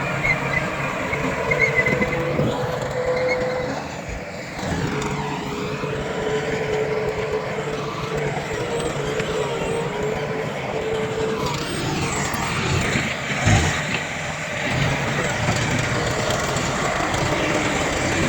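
Diesel engines of heavy earthmoving machinery running steadily, with a held mid-pitched tone through much of the first half and a single sharp knock about 13 seconds in.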